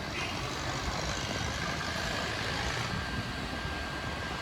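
Steady rush-hour city traffic: a dense, even noise of vehicle engines and road rumble, with no distinct horn blast.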